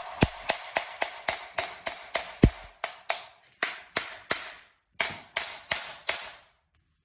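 Repeated hammer taps on the metal housing of a car's air suspension compressor, about three a second with one heavier blow about two and a half seconds in, knocking a stuck part loose. The tapping stops about six seconds in.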